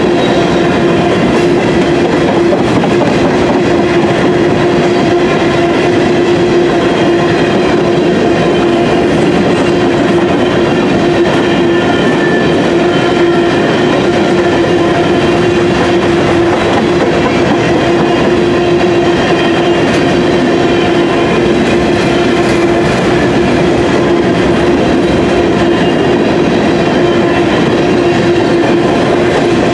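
Covered hopper cars of a Norfolk Southern grain train rolling past, a steady, loud rumble of steel wheels on rail with a steady tone running through it.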